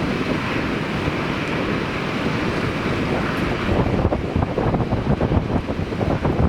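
Strong gusty wind buffeting the microphone, a loud, uneven rumble.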